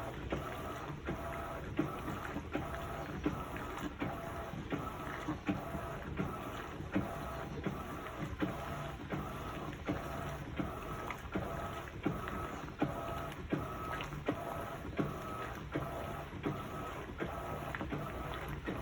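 Electrolux LPE16 top-loading washing machine agitating on its heavy program, loaded with comforters. The motor hums and stops in an even rhythm, about three strokes every two seconds, with a click at each stroke.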